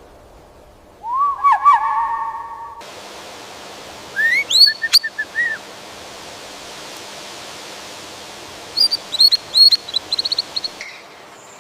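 Birds calling in three separate bouts of short whistled notes. The first is low and gliding, the second rises to a high note followed by several quick notes, and the third is a run of quick high notes that speeds into a trill near the end. The background hiss changes between bouts.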